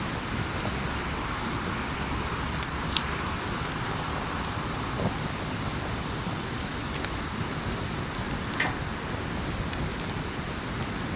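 Wood campfire burning: a steady hiss with scattered sharp crackles and pops, a couple of louder snaps between two and three seconds in and another cluster about three-quarters of the way through.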